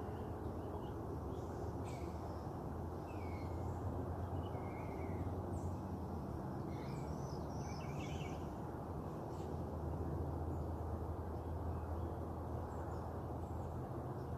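A few short bird chirps and calls, several bunched together in the middle, over a steady low background rumble.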